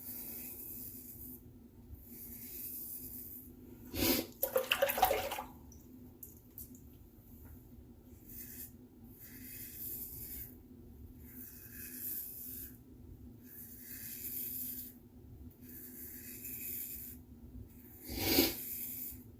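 Safety razor (Razorock Gamechanger .84 with a new Polsilver blade) scraping through lather and stubble in a series of short strokes, about one every second or two. A louder rattling burst comes about four seconds in, and another brief loud burst comes near the end.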